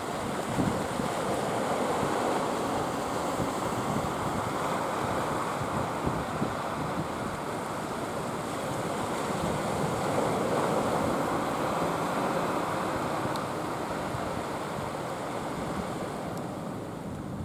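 Steady rush of surf, with wind buffeting the microphone.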